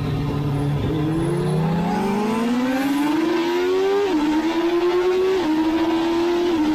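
Kawasaki ZXR750 race bike's inline-four engine under hard acceleration, heard from on board: the pitch climbs steadily for about three seconds, then drops sharply with an upshift about four seconds in, and again with two more upshifts near five and a half and six and a half seconds, over steady wind rush.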